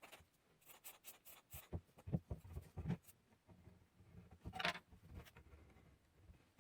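Faint, scattered clicks and small scrapes of hand work on a wooden board, with a slightly longer scrape a little over four and a half seconds in.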